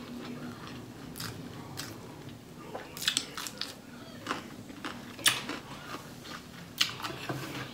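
Chewing close to the microphone: a run of short, sharp crunches and wet mouth clicks as pickled cucumber slices are bitten and chewed with rice, the loudest crunches about three, five and seven seconds in.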